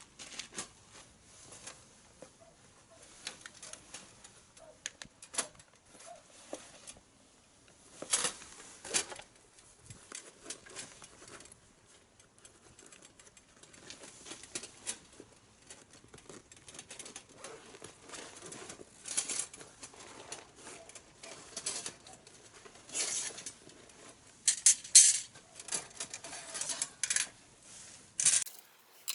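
Kindling wood crackling and snapping in a fire pit: an irregular run of sharp clicks and pops, with a few louder snaps about a third of the way in and a cluster of them near the end.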